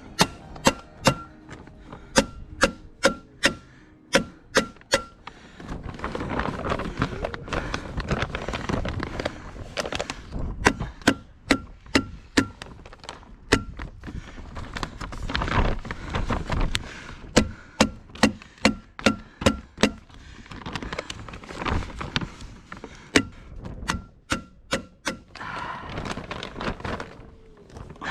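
Staples being driven into wood to fasten plastic sheeting, in quick runs of sharp snaps about two or three a second, each with a brief metallic ring. Between the runs, wind and the plastic sheeting rustle.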